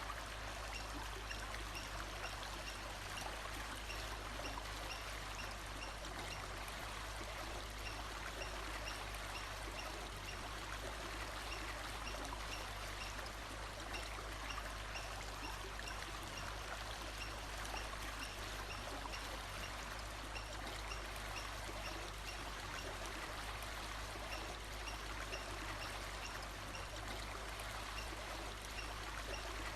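Steady running water of a stream, with a faint high note repeating evenly in the background.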